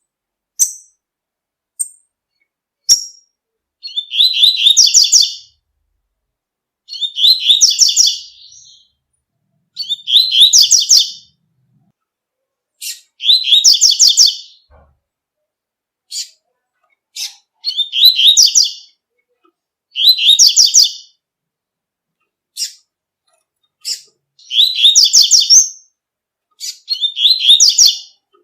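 Double-collared seedeater (coleiro) singing its tui-tui song: a high, fast twittering phrase of about a second and a half, repeated roughly every three seconds, with single short call notes in the gaps.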